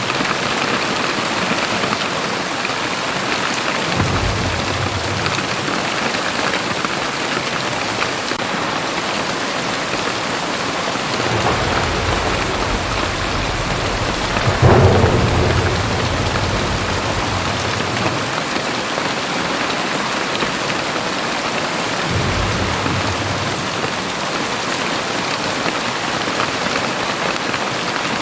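Very heavy rain pouring steadily, with thunder rumbling low several times; the loudest peal comes about halfway through.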